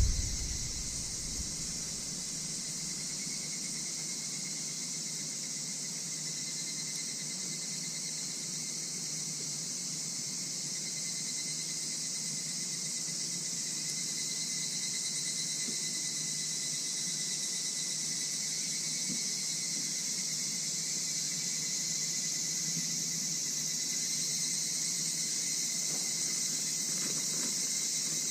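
A night chorus of crickets and other insects, chirring steadily with high-pitched, unbroken trilling.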